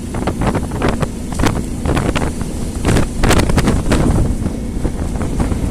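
Wind buffeting the microphone on a motorboat, over the steady noise of the boat, with frequent short gusts.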